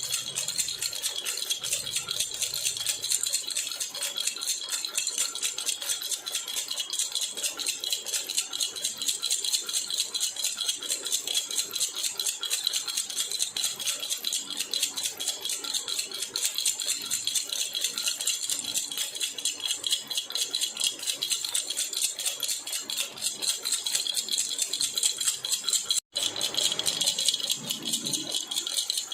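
A jhunjhuna baby rattle shaken rapidly and continuously, giving a dense, steady jingling rattle. It breaks off for a split second near the end, then carries on.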